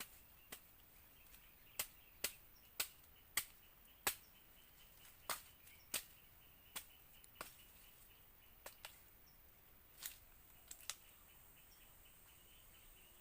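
Young coconut being hacked open with a machete: about fifteen sharp, irregular chopping strikes, some in quick pairs. A faint steady insect hum runs under them.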